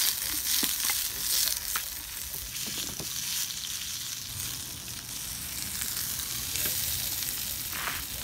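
Food sizzling in a pan over a campfire: a steady frying hiss with scattered small pops.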